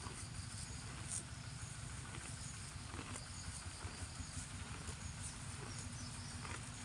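Cow grazing: irregular crisp snaps and crunches as it tears off grass and chews, over a steady low rumble.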